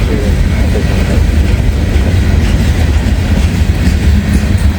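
Long freight train's cars rolling slowly past, a steady low rumble of wheels on rail.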